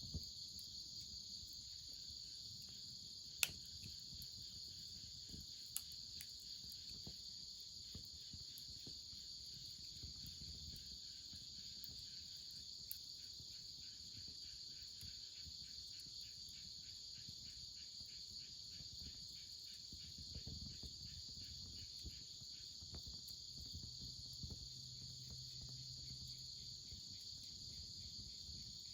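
Faint, steady chorus of crickets and other insects chirring in a high, even band, with a fast pulsing call joining in the middle. A couple of sharp clicks cut through it, the loudest a few seconds in.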